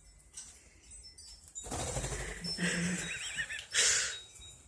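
Quaker parrot making warbling chatter calls, followed by a short, loud, harsh squawk-like burst near the end.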